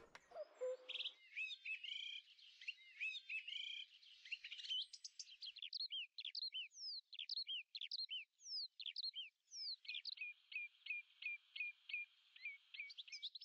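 Birds chirping: a faint mix of quick whistled notes, many sliding down in pitch, and near the end a fast, even series of short repeated notes.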